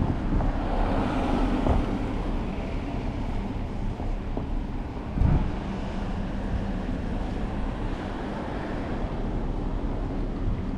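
Wind buffeting the microphone over waves washing onto the beach, with a low thump about five seconds in.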